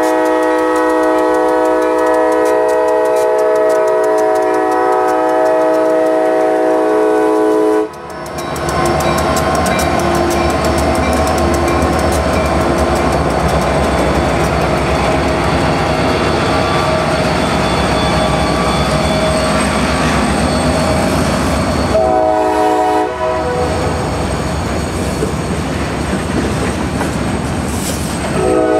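CSX SD60M diesel locomotive's multi-note air horn blowing a long, loud blast as it passes close by, cutting off about eight seconds in. Then the heavy rumble of the locomotives working hard under full throttle as they drag the freight up to speed, with wheels clacking and cars rattling over the rails. The horn sounds again briefly about two-thirds of the way through and once more near the end.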